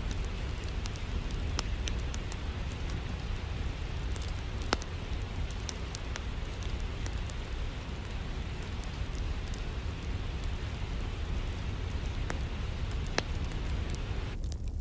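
Steady rain hiss with a low rumble, mixed with a wood fire crackling in sharp, scattered pops. Just before the end the rain hiss suddenly thins out.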